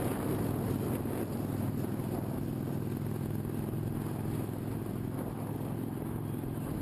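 Motorcycle engine running at a steady speed, without revving.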